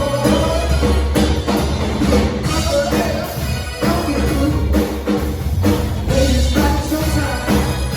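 Band music played live, with drum kit and heavy bass running steadily throughout.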